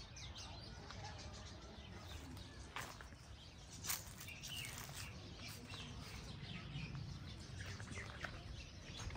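Faint outdoor ambience with occasional bird chirps, and two brief clicks about three and four seconds in.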